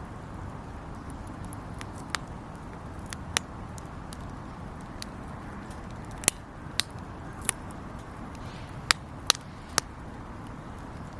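Wood campfire burning: a steady hiss with sharp crackles and pops at irregular intervals, the loudest ones bunched in the second half.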